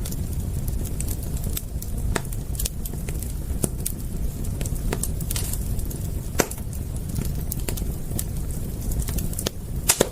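Wood fire crackling: irregular sharp pops and snaps over a steady low rumble of burning, with a loud pop just before the end.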